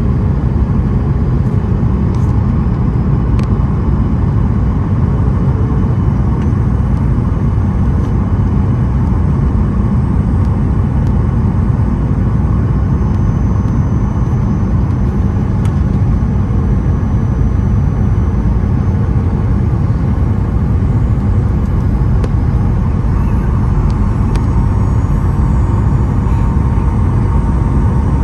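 Steady, loud low rumble of engine and airflow noise inside the cabin of a Boeing 737-900ER airliner.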